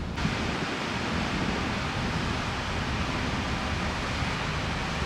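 Steady rushing outdoor noise with no distinct events, stepping up in hiss just after the start.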